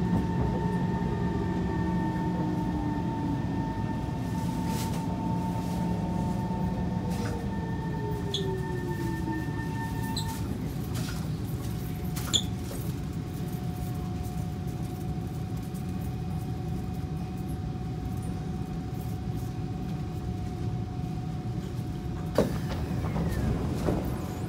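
Kawasaki C151 train's traction motors whining as it brakes, the tones sliding down in pitch and dying away about ten seconds in as the train comes to a stop. It then stands with a steady electrical hum under rumbling car noise, with a sharp click near the end.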